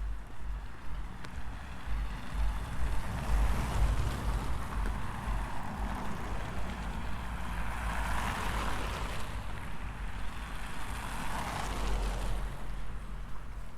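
Cars passing on a city street: tyre and engine noise swells and fades about three times over a steady low rumble.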